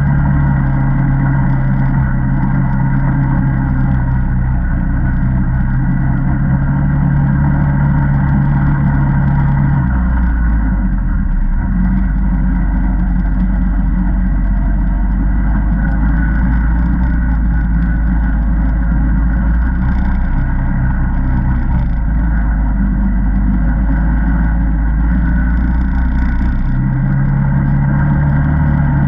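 Single-cylinder ATV engine running steadily while riding. Its pitch drops lower about ten seconds in and rises again near the end, as the rider eases off and then speeds back up.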